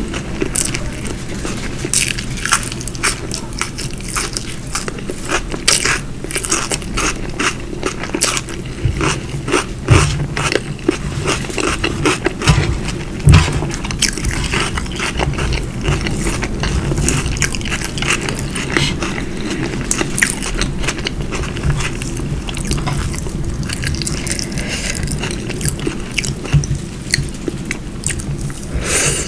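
Close-miked eating sounds: chewing and biting with many sharp wet clicks and crackles, and now and then a scrape.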